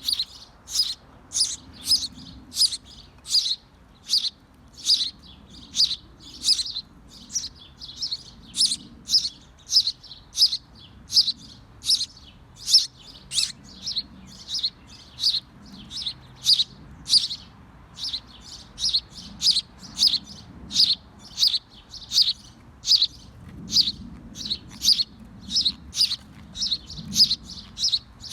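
A small bird at a birdhouse chirping over and over, short high chirps at about two a second, keeping an even rhythm.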